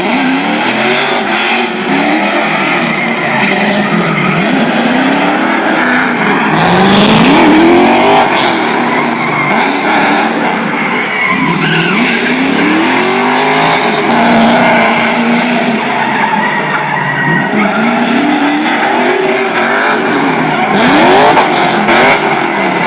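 LS2 V8 in a Nissan 240 drift car, revving up and down again and again as it drifts, over continuous tire squeal.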